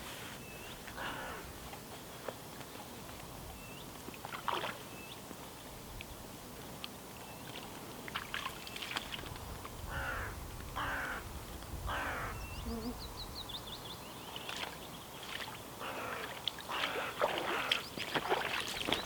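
Wild birds calling outdoors: short high chirps and a quick trilling call, among intermittent scuffling noises from the birds struggling by the water. Footsteps on the ground come in near the end.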